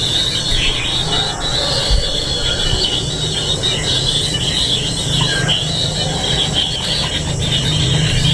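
Kingfisher nestlings begging together in a continuous, high-pitched, unbroken chorus, with a low rumble underneath.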